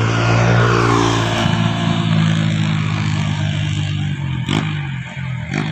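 Truck engine running hard on a steep climb, its pitch sinking slightly, with two short sharp clicks near the end.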